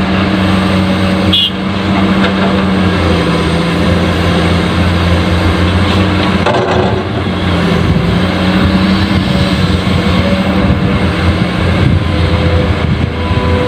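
Truck engine running steadily with a low hum, its pitch shifting slightly about midway.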